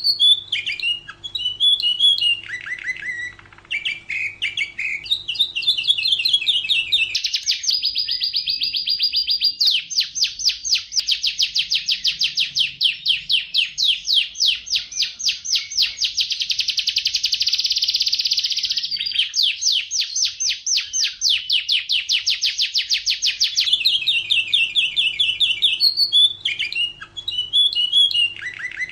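Domestic canary singing: varied chirping and warbling phrases, then a long, fast trill of rapidly repeated notes that changes pitch a couple of times through the middle, before returning to varied phrases near the end.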